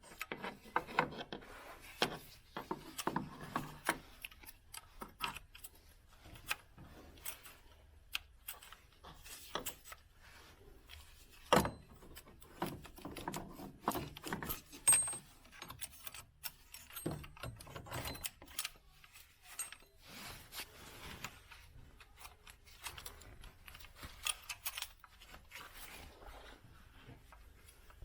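Hand tools and metal parts being handled: irregular clicks, clinks and light knocks with some rubbing between them, and a few sharper knocks near the middle.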